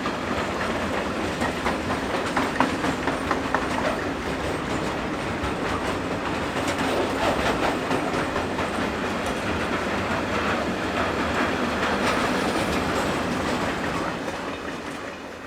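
Heavy freight train of loaded steel-coil wagons, hauled by two class 253 electric locomotives, rolling past with a steady rumble and repeated clicks of wheels over the rail joints. It dies away near the end as the train moves off.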